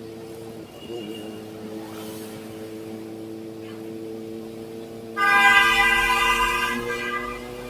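Kawasaki ZX-4RR's inline-four engine running at steady revs through an SC Project exhaust. About five seconds in, a loud vehicle horn sounds suddenly for about two seconds, louder than the engine.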